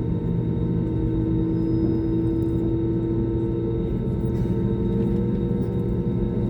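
Airbus A320 engines heard inside the passenger cabin: a steady rumble with several held hum tones, one of them shifting slightly in pitch about four seconds in.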